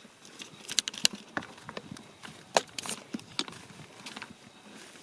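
Footsteps crunching on loose volcanic ash and gravel on a climb: irregular sharp crunches, the loudest about a second in and again about two and a half seconds in.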